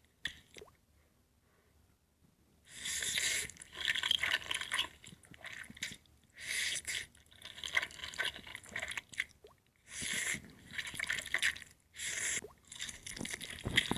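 Close-miked wet eating sounds: several bursts of mouth noise a second or two long with short pauses between, starting about three seconds in.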